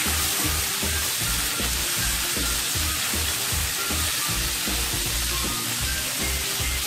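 Sliced Korean zucchini and onion sizzling in hot oil in a frying pan, stirred with a spatula.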